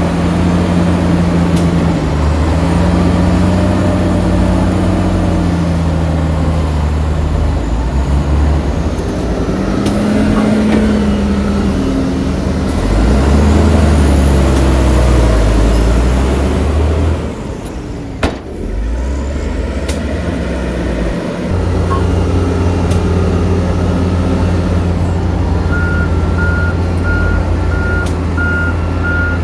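Heavy diesel earthmoving machinery working, its engine revving up and down under load, with one sharp knock as it eases off midway. Near the end a reversing alarm starts beeping about twice a second.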